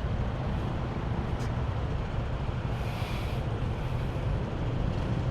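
Motor scooter running under way, its engine a steady low drone under road and wind noise, with a brief hiss about three seconds in.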